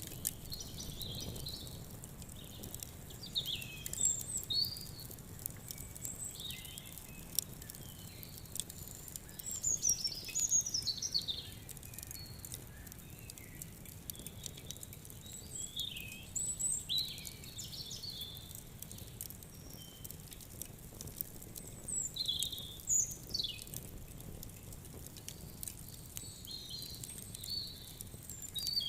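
Small birds chirping and trilling on and off, with the sharp snaps and pops of a crackling wood fire scattered throughout over a faint low hush.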